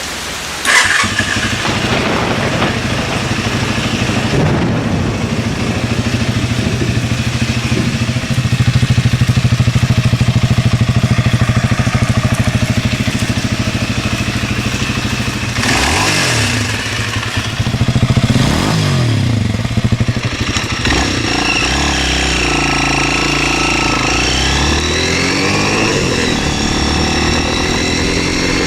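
MZ 125 SX motorcycle's 125 cc single-cylinder engine firing up about a second in and idling steadily. It is revved twice around the middle, then pulls away, its pitch rising repeatedly through several gear changes.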